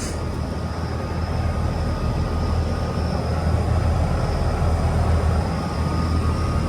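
Carrier split-system outdoor condensing unit running: a steady low hum from the compressor and condenser fan, with a faint high whine. The system is cooling properly, at 11 degrees of subcooling.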